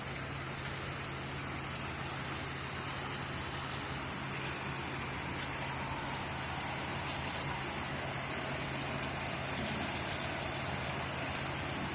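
Heavy rain falling steadily during a thunderstorm, with a low steady hum underneath, growing slightly louder toward the end.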